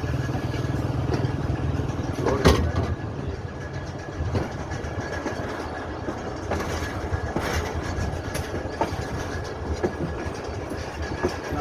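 Hazara Express passenger train running on the rails: a steady low rumble with wheels knocking over rail joints, and a loud clank about two and a half seconds in.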